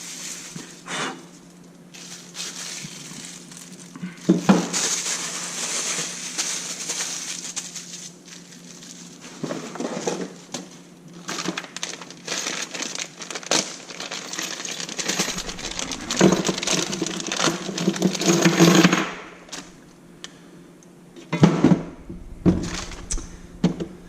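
Plastic packaging crinkling and rustling as the parts of a motorcycle wheel chock stand are handled and unwrapped, with irregular knocks of the parts set down or bumped together, heaviest a few seconds in, around ten seconds, and near the end.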